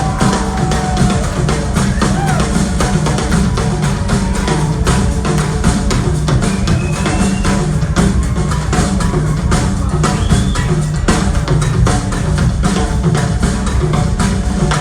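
Live rock band playing an instrumental passage with the drum kit to the fore: dense, steady bass drum and snare hits over a heavy low end.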